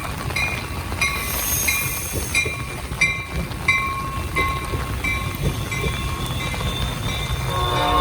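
A train rumbling past while a railroad crossing bell rings steadily, about one and a half strikes a second. Near the end a locomotive air horn starts to sound a chord.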